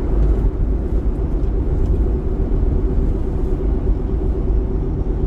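Ford Super Duty pickup driving at road speed, heard from inside the cab: a steady low rumble of engine and tyre noise with a faint steady hum.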